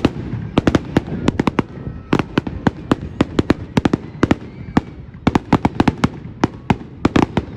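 Fireworks going off: loud, sharp bangs in quick irregular clusters, several a second.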